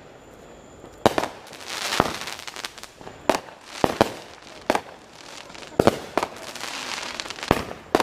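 Consumer fireworks going off: a string of about eight sharp bangs, irregularly spaced, with crackling and hissing between them.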